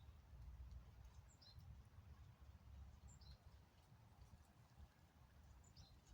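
Faint songbird calls: a short high chirp stepping down in pitch, heard three times about every second and a half to two seconds, over a low, steady background rumble.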